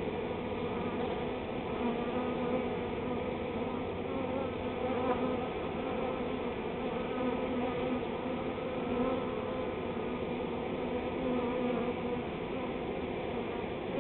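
A swarm of honey bees buzzing, many bees flying at once around the hive they are moving into: a steady, dense hum whose pitch wavers slightly.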